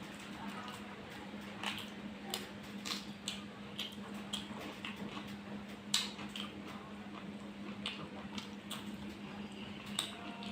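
Close eating sounds of curry and rice: irregular wet squishes and smacks with sharp clicks against a plate or dish, the sharpest about six seconds in, over a steady low hum.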